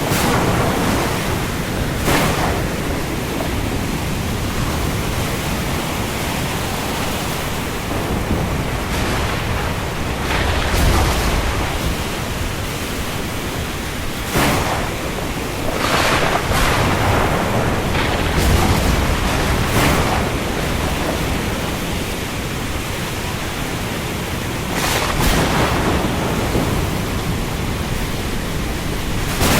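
Steady rain falling on the open sea: an even, dense hiss with a few brief louder surges every several seconds.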